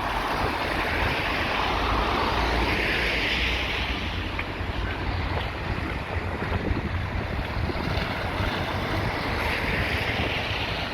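Wind buffeting a phone microphone outdoors, a steady rushing noise with a heavy low rumble that swells twice, once early and once near the end.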